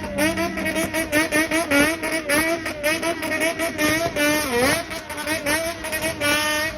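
Honda CBX400F's air-cooled inline-four, through a Waltz Kikai exhaust, blipped over and over in a rhythmic bosozoku-style 'call': quick revs rising and falling in pitch. Revs drop to a low dip about four and a half seconds in, then a fast run of high blips follows near the end.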